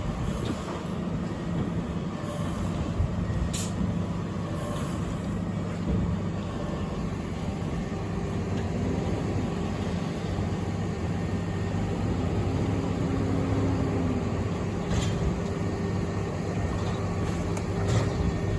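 A heavy truck's engine runs steadily while its hydraulic push-out ejector works to unload the load. A steady higher hum joins about eight seconds in, and there are a few short clicks.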